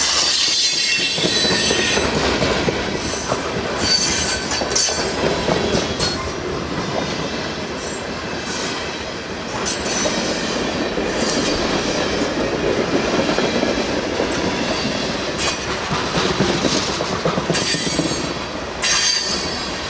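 Freight cars rolling past on steel wheels, with a steady rumble and a high wheel squeal from the rails that is strongest at the start and again near the end. Sharp clicks from the wheels run through it.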